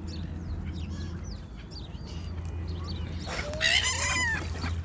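Birds chirping over and over in short high notes, with a louder, drawn-out animal call with several gliding tones about three and a half seconds in.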